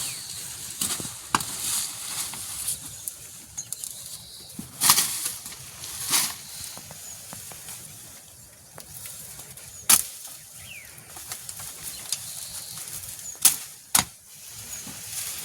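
Sharp clacks and knocks at irregular intervals, a few seconds apart, the loudest two close together near the end. Faint short chirps sound between them.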